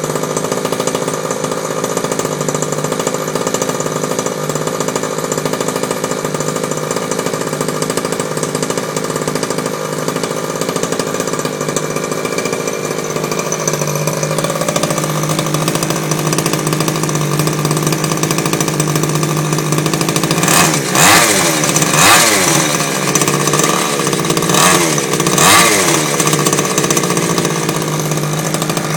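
Shengqi Hummer truck's engine idling steadily, then revved in about four short blips about two-thirds of the way through before settling back to idle.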